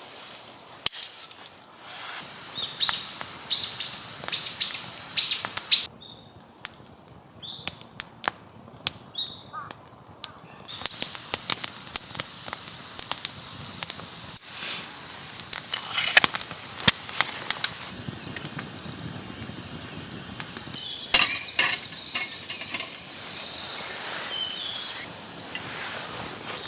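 Wood fire crackling with many sharp pops over a steady hiss, with a run of short high chirps about three seconds in.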